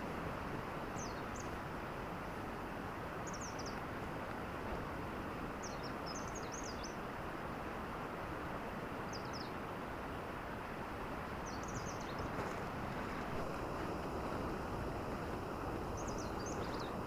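A steady hiss of outdoor night ambience, with short clusters of high, quick chirps repeating every second or two from a small animal.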